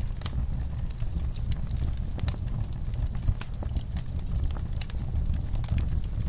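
Wood fire burning in a fireplace: a steady low rumble of the flames with irregular crackles and pops, one louder pop about three seconds in.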